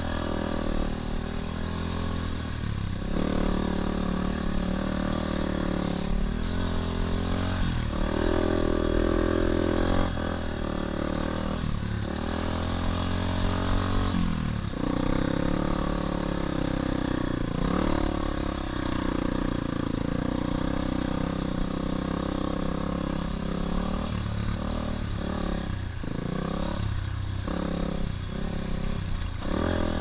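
Dirt bike engine revving, its pitch climbing and then dropping sharply again and again as the throttle opens and closes through shifts. Near the end the throttle goes on and off in a choppy run.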